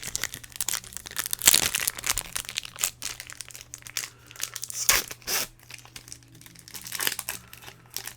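Plastic Pokémon booster pack wrappers crinkling as they are handled and torn open, in irregular crackly rustles that are loudest about one and a half seconds in and again about five seconds in.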